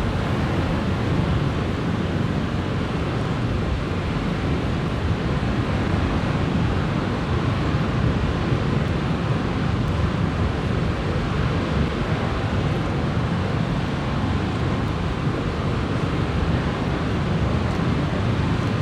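Strong wind rushing steadily, with wind buffeting the microphone in a low rumble.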